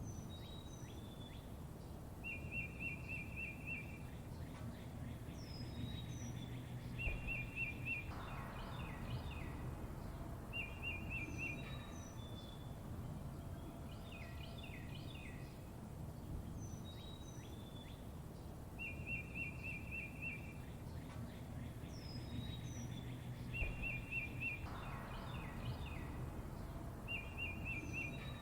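Several songbirds chirping: fast trilled phrases about a second and a half long, high down-slurred whistles and short chip notes, over a steady low background rumble. The same run of calls repeats about every 16 seconds, as in a looped recording.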